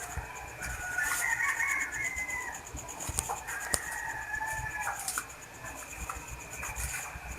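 A rooster crowing twice, each crow long and drawn out, with a sharp click between the two crows.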